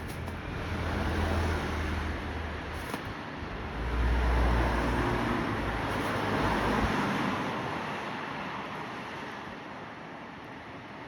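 A road vehicle passing: a noise that swells, is loudest around the middle, then fades away, with a deep rumble in the first half.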